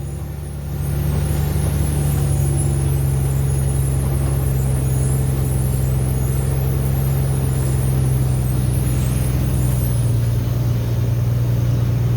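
Heavy diesel truck engine running steadily. It gets louder about a second in, and its pitch eases slightly lower near the end.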